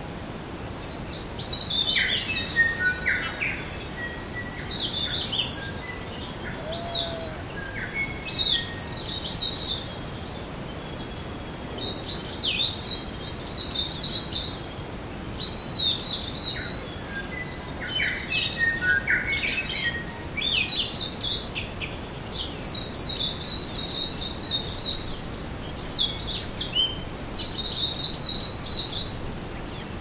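Birds singing: quick high phrases every second or two, with lower short notes at times, over a steady background hiss.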